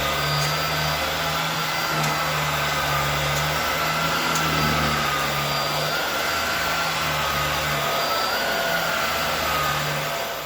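Hoover Air Steerable bagless upright vacuum cleaner running on a rug: a steady rush of suction with a high motor whine that wavers slightly in pitch and a low hum that swells and fades. It begins to wind down at the very end as it is switched off.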